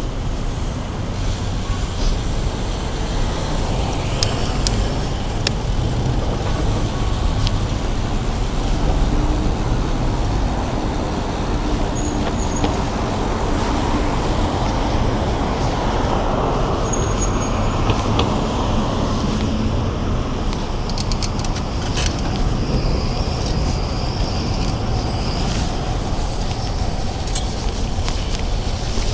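Steady wind and road rush on a bike-mounted camera during a ride, with motor traffic passing. The sound swells in the middle as a vehicle goes by.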